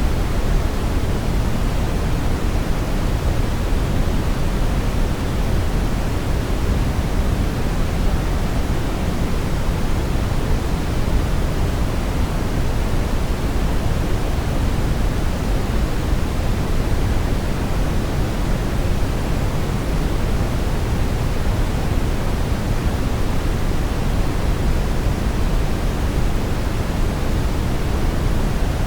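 Steady brown noise: an even, deep rushing hiss, strongest in the bass, with no changes or events.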